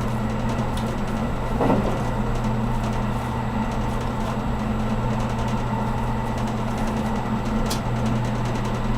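Steady cabin running noise of a 783 series limited express electric train, a constant rumble with a low steady hum underneath. A brief thump about two seconds in and a short click near the end.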